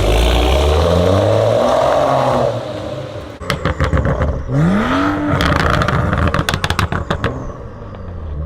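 BMW M135i's turbocharged straight-six exhaust revving: the engine climbs and holds high revs, then drops off into rapid pops and crackles. About halfway through, a second quick rev blip is followed by more crackling, and another rev starts near the end.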